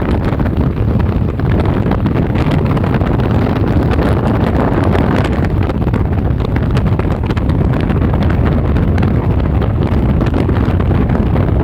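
Strong wind buffeting the microphone, a loud steady rumbling roar with constant gusty flutter, and no break until the sound cuts off sharply at the end.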